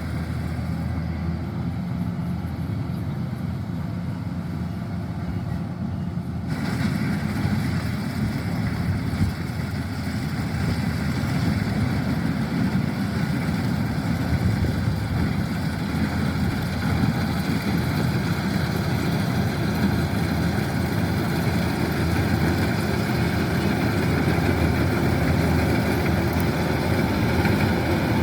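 Kubota DC-105X combine harvester running steadily while harvesting rice, its diesel engine and machinery making a continuous noise. About six seconds in the sound suddenly turns brighter and a little louder.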